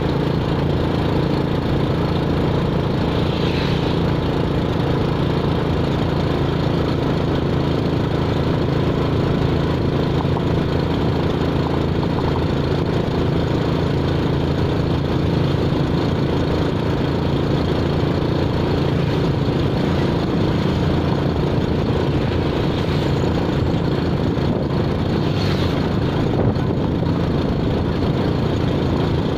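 A motor vehicle's engine running steadily at an even speed.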